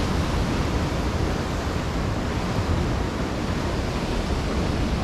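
Steady rushing noise of heavy surf breaking along the shore, with no distinct events.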